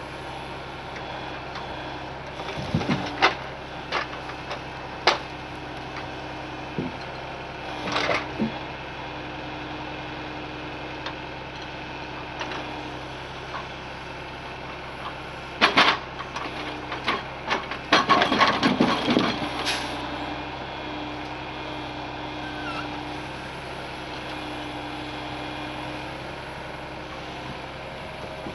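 Heavy truck engine running steadily, with scattered knocks and clattering bangs over it, the loudest a cluster a little past the middle.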